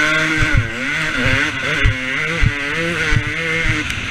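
Motocross bike engine revving hard, its pitch holding, then dipping and rising again with the throttle, and dropping away near the end, with several short low thuds among it.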